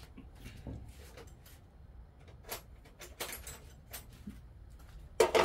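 Scattered light clicks and knocks of tools and stove parts being handled, with a louder clatter near the end.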